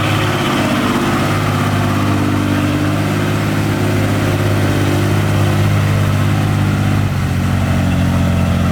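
Diesel engine of heavy earthmoving machinery running steadily, its pitch shifting slightly a few times.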